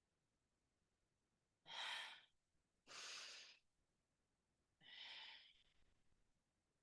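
Three audible breaths, each about half a second long, a second or so apart, from a person exercising through Pilates ab curls.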